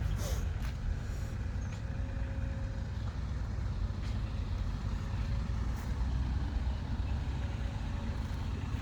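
Dump truck's diesel engine running steadily with a low rumble, and a short hiss just after the start.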